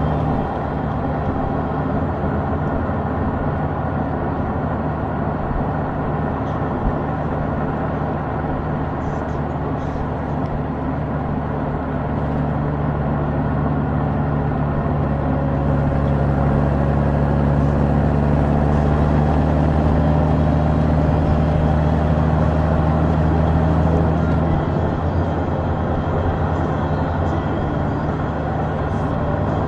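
Honda Gold Wing's flat-six engine running under way, with road and wind noise. It gets louder about halfway through and eases off again a few seconds before the end.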